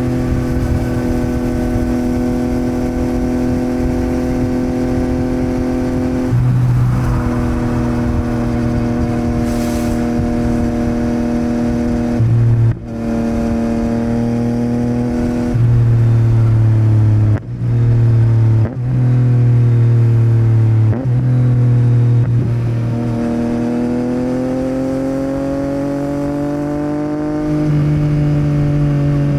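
Yamaha MT-09's inline three-cylinder engine running through a Yoshimura R77 exhaust while riding, held at steady revs for long stretches. A few brief dips come mid-way, and the revs rise slowly near the end.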